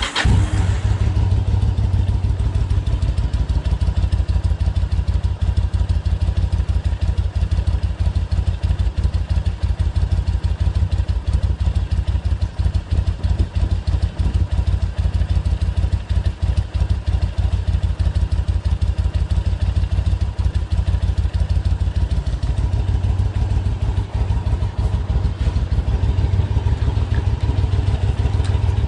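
Yamaha BT1100 Bulldog's air-cooled V-twin, breathing through aftermarket LeoVince SBK silencers, catches right at the start and then settles into a steady, loud idle with an even rapid pulse from the exhaust.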